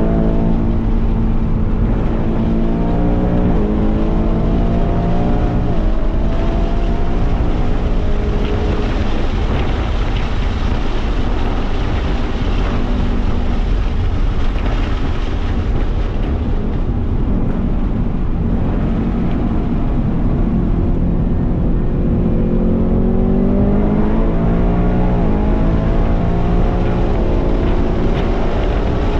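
Ford Mustang Mach 1's 5.0-litre V8 at full throttle, heard from inside the cabin. The engine note climbs and drops back with gear changes twice in the first few seconds. In the middle, wind and road noise at high speed cover it, and near the end the engine climbs to high revs again with another shift.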